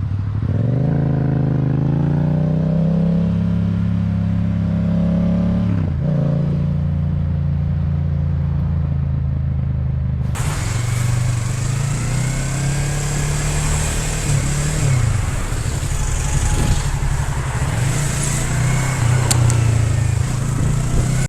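Motorcycle engine pulling up through the revs, then running steadily at speed. Partway through the sound cuts to another ride, where a running engine sits under heavy wind and road noise.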